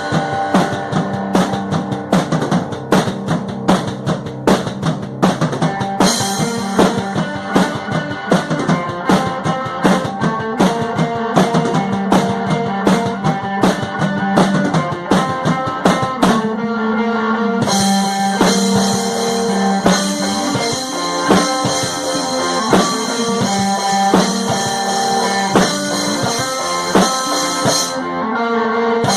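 Instrumental rock music: drum kit keeping a steady beat under electric guitar and bass, with a brief break in the drums partway through.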